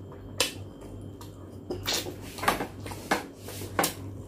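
Close-miked mukbang eating sounds: a person chewing roast pork leg (lechon pata) with the mouth open, giving about six sharp wet smacks and clicks, over a steady low hum.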